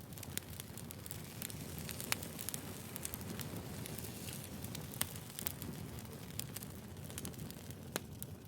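Wood fire burning: a steady low rumble of the flames, with sharp crackles and pops from the burning firewood scattered through it. The loudest pops come about two seconds in, about five seconds in, and near the end.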